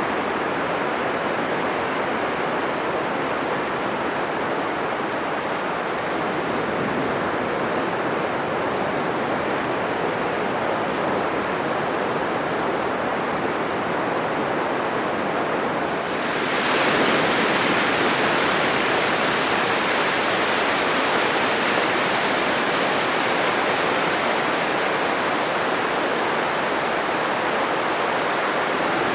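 Atlantic surf breaking on a sandy beach: a steady rushing roar of foaming waves. About halfway through it grows suddenly louder and hissier as heavier surf comes in, and stays so.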